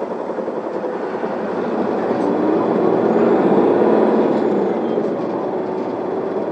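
Isuzu Elga city bus's diesel engine heard from inside the cabin as the bus pulls away from a stop, growing louder as it accelerates and easing off a little about five seconds in.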